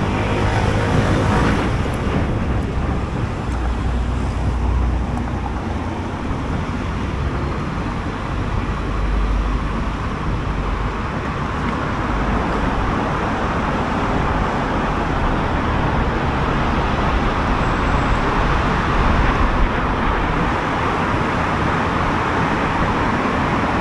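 Riding noise on a SYM Jet X 125 scooter in traffic: the single-cylinder 125 cc engine running under a steady rush of wind and road noise. A few pitched tones fade out in the first couple of seconds.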